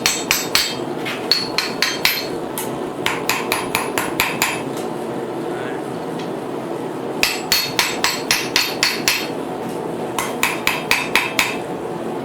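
Blacksmith's hammer striking hot steel on an anvil, in four runs of quick blows about five a second with short pauses between, while forging the tines of a fork from 10 mm bar.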